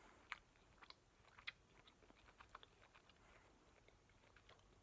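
Faint, sparse wet clicks of a mouth chewing a soft Sour Patch Kids sour gummy candy, with two slightly louder clicks in the first second and a half.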